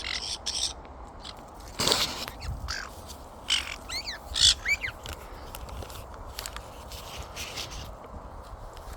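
Parrots giving short squawks and chirps, with some sharp clicks among them, mostly in the first five seconds.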